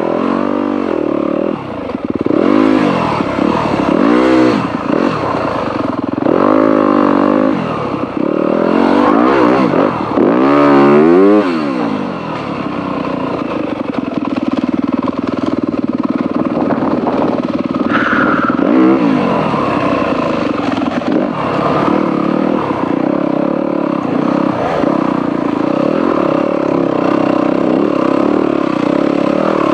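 Dirt bike engine ridden along a trail, revving up and easing off every second or two for the first dozen seconds, then holding a steadier note for the rest.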